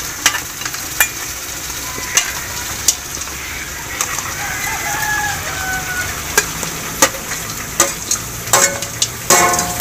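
Meat frying in a pan with a steady sizzle, broken by sharp clicks of a utensil stirring against the pan. A rooster crows once in the background about four seconds in.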